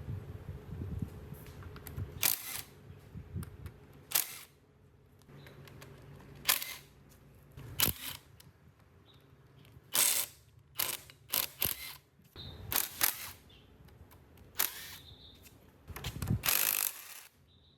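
Irregular sharp clicks and short scraping or hissing bursts from hand-tool work on the grinder, over a low hum that stops about eight seconds in.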